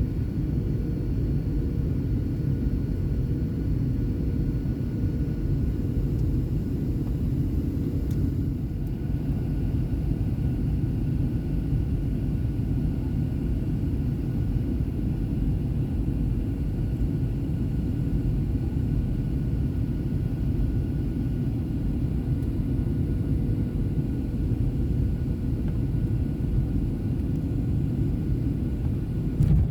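Steady cabin noise inside a Boeing 737: a constant low rumble of engines and airflow, with a faint steady high whine over it.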